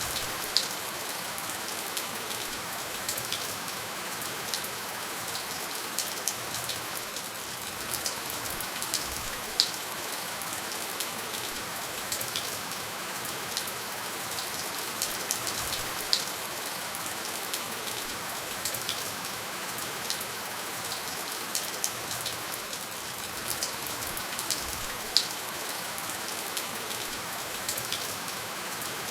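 Steady, gentle rainfall with no thunder: an even hiss of rain with many small drop clicks scattered through it and a few louder single drops standing out every several seconds.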